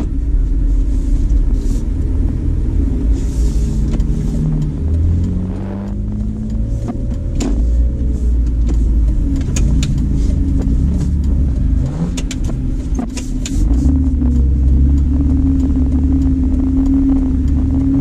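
BMW E46 330Ci's 3.0-litre straight-six idling and crawling at walking pace, heard from inside the cabin, its pitch shifting a little now and then. Scattered light clicks come in the middle.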